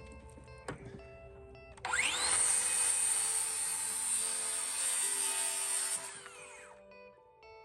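Electric power saw spinning up about two seconds in and cutting through a piece of wood siding for about four seconds, then winding down.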